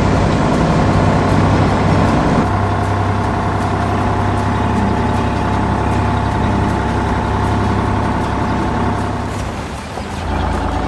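Heavy truck engine running steadily. Its sound changes about two and a half seconds in, and it drops briefly near the end before picking up again.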